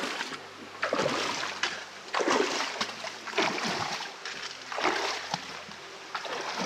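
Legs wading through a shallow river, a splash and slosh of water with each stride, about one every second and a half.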